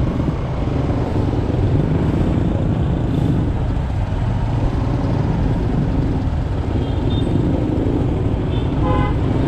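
Motorbike engine running with steady road noise, heard from the rider's seat. Near the end a vehicle horn toots briefly.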